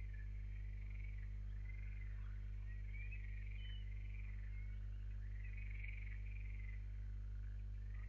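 Steady low electrical hum with many faint, high chirping calls of small animals, repeating throughout.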